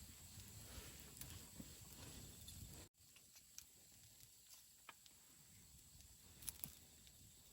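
Wood campfire crackling faintly: scattered small pops and snaps over a soft hiss, with a brief drop-out about three seconds in.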